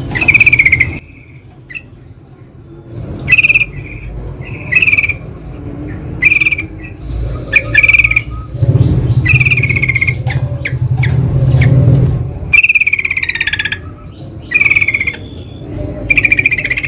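Yellow-vented bulbuls (trucukan) calling: short chattering phrases repeated every second or so, some overlapping. A low rumble runs underneath from about nine to twelve seconds in.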